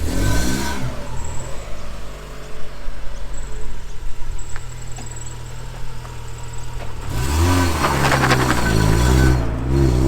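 A car engine running steadily, revved briefly at the start and again more loudly a few seconds before the end, as the car pulls away.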